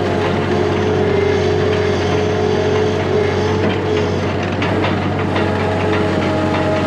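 An engine running steadily with a constant hum, with a few faint clicks and rattles.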